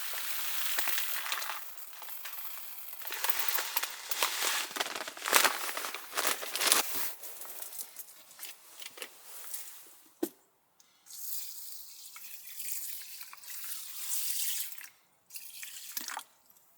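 Water running or being poured, with scattered clicks and rustles of handling; it breaks off briefly about ten seconds in and again near the end.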